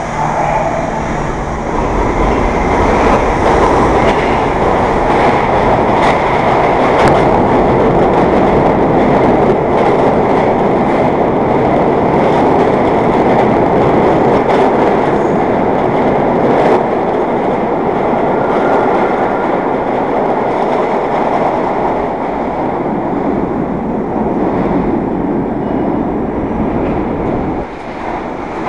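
New York City subway train running through an underground station: a loud, steady rumble and rush of wheels on rail, with scattered rail clicks, dropping off a little near the end.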